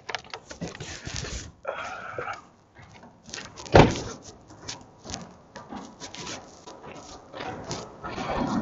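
Irregular knocks, clicks and rustles of a handheld camera being carried on foot, with one louder knock about four seconds in.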